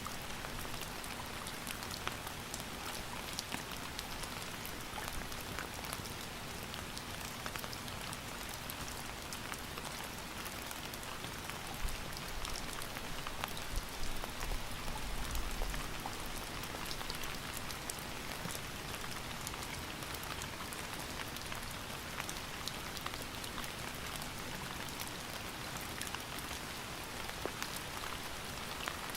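Steady rain falling, with a constant hiss and many individual drops pattering on a surface. A low rumble swells briefly about halfway through.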